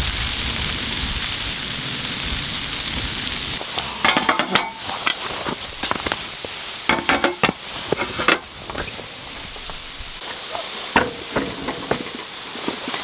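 Camp cooking: a steady hiss, then from about four seconds in, food sizzling in a pan with repeated sharp metallic clinks and scrapes of a utensil stirring against it.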